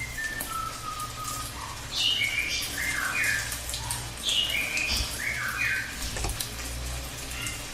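Cililin (pygmy bushtit) singing: short series of high, quick chirps that step down in pitch, repeated about every two seconds, with one longer, lower note near the start. A faint low hum runs under the song.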